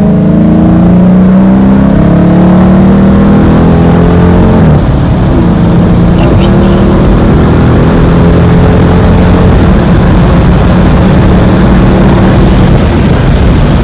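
5.7 Hemi V8 of a 2019 Dodge Challenger R/T through a Borla Atak cat-back exhaust, pulling under acceleration with the engine note climbing slowly. About five seconds in the pitch drops sharply, and the engine then holds a steady drone.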